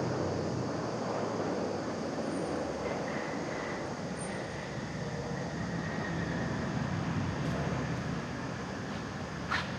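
Airbus A380's jet engines running with a steady broad rumble and a faint high whine, with a brief click near the end.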